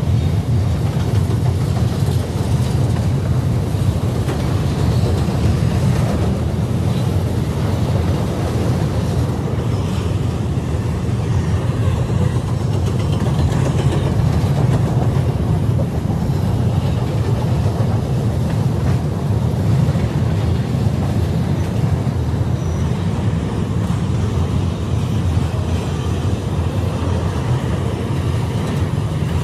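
Freight train's autorack cars rolling past, a steady low rumble of steel wheels on rail.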